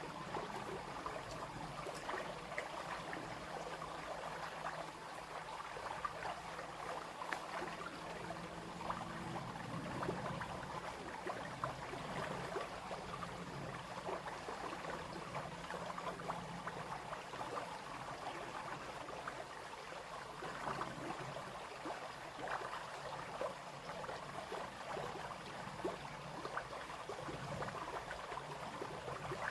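Small brook babbling and splashing steadily over stones, a constant patter of many tiny splashes.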